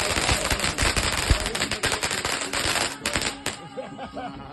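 Firework crackling in a dense, rapid run of sharp pops, cutting off suddenly about three and a half seconds in.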